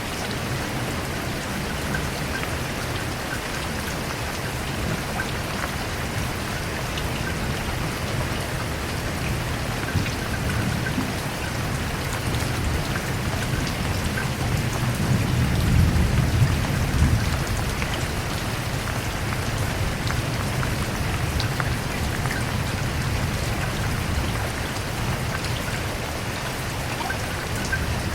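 Steady rain falling, with a low rumble of thunder that swells and fades about halfway through.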